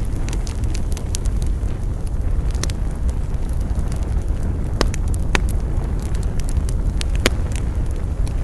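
Wood campfire burning: a steady low rumble with scattered crackles and sharp pops of burning wood, a few louder pops about five and seven seconds in.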